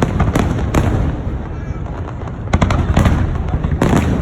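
Fireworks shells bursting in quick succession: a string of sharp bangs over a constant low rumble, growing denser in the second half.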